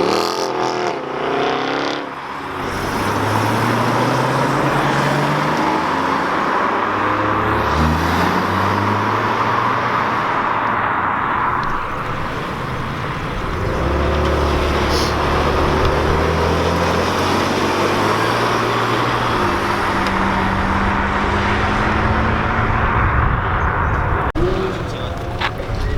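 Several cars driving past one after another, their engines accelerating with rising pitch, over a steady background noise.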